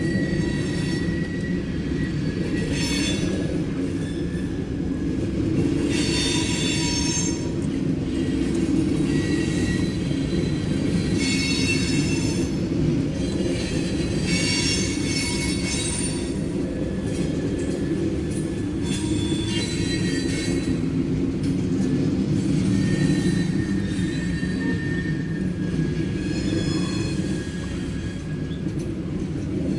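Loaded coal hopper cars of a freight train rolling past with a steady low rumble. Bouts of high-pitched wheel squeal come every few seconds.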